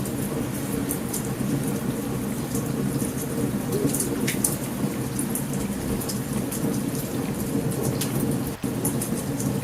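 Steady heavy rain with a continuous low rumble of thunder, overlaid by short sharp pops scattered throughout from a crackling wood campfire.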